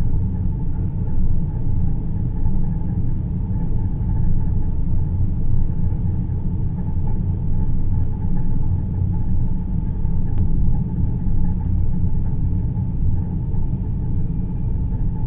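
Deep, steady rumbling drone of a space-ambience soundscape, with most of its weight in the low bass and a faint hum higher up. A single faint click comes about ten seconds in.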